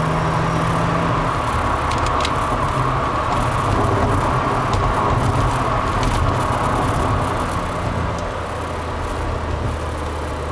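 Supercharged V6 of a TRD Aurion running through a pair of Magnaflow mufflers, a steady exhaust note that drops lower about a second in, then eases off a little about eight seconds in.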